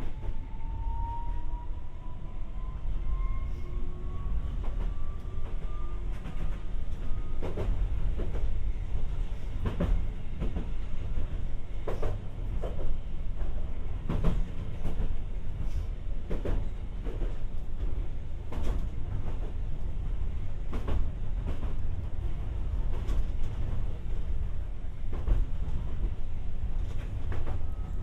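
Tokyu 300 series light-rail car heard from inside over its motor bogie, rolling with a steady low rumble. A thin traction-motor whine climbs slowly in pitch over the first several seconds as the car gains speed, then sharp knocks of the wheels over rail joints come every second or two.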